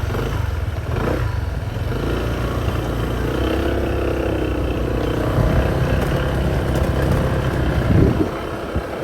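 Motorcycle engine running while riding, its pitch rising and falling with the throttle, with a brief louder burst near the end.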